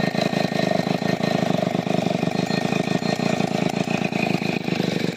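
Stihl 070 two-stroke chainsaw engine running steadily.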